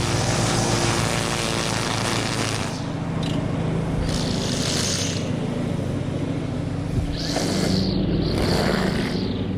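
An engine running steadily, with a broad hiss over it that fades and returns a couple of times.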